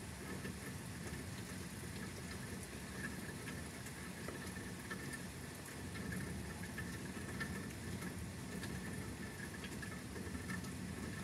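Steady rain falling during a thunderstorm, with many small drops pattering.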